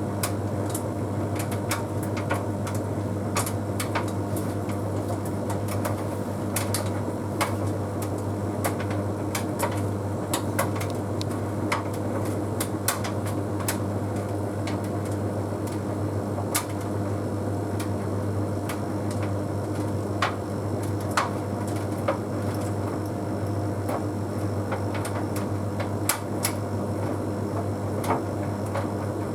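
Bosch Series 6 heat pump tumble dryer (WQG245R9GB) running an Easy Care cycle: a steady low hum with scattered light clicks and taps as the load tumbles in the drum.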